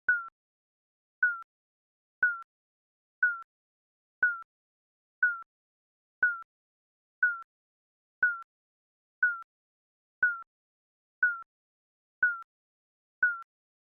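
Digital countdown timer beeping once a second: a short, high electronic beep that slides down slightly in pitch, repeated evenly.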